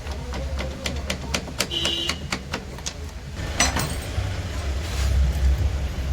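Metal engine parts and tools clicking and clinking in quick succession, with a brief ring and then one louder clank a little past halfway, as the cylinder barrel is worked off a Bajaj Pulsar 150 engine. A steady low hum runs underneath.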